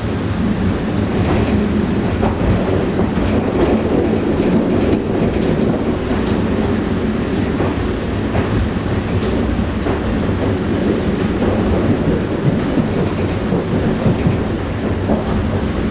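Interior of an Astra Trans Carpatic IC2 diesel multiple unit running at speed: a steady rolling rumble with a low hum, and scattered clicks and knocks of the wheels over rail joints and points.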